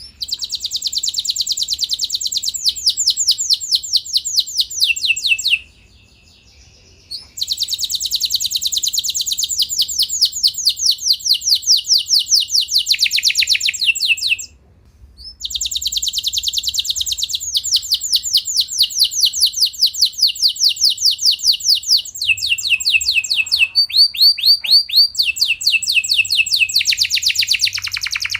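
Domestic canary singing a long rolling song of fast trills, changing from one trill to the next every second or two. It sings in three long bouts with short pauses about six and fifteen seconds in.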